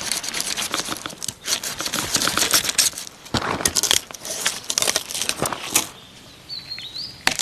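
Dense crackling and rustling with many sharp snaps as the thorny stems and leaves of a Japanese angelica tree shoot are handled and broken off. It goes quieter about six seconds in.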